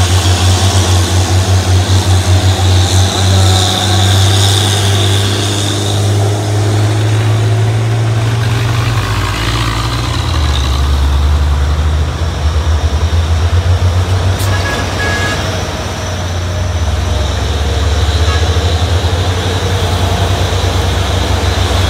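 Heavy truck's diesel engine running with a low, pulsing note that drops in pitch about ten seconds in.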